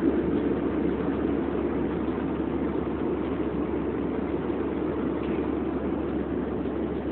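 Steady cabin noise of an airliner in flight: an even, unbroken drone of engines and airflow.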